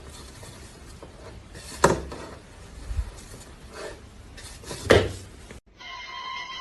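Hard objects clattering: two sharp knocks about three seconds apart with fainter knocks between, over a low hum. Near the end, after an abrupt cut, a steady high tone starts.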